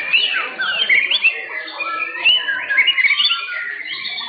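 White-rumped shamas (murai batu) singing at once, a dense tangle of overlapping whistles that slide up and down, with quick runs of notes.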